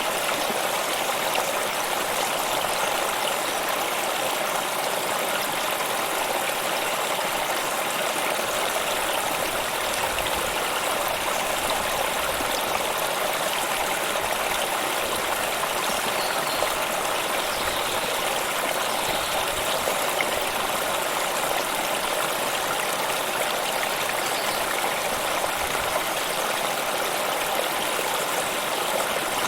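A stream of running water flowing steadily, an even rushing with no change in level.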